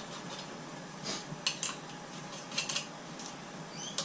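Light metal clinks and taps, several in a row, as hand tools and small metal parts are handled and set down during motorcycle chain and sprocket work.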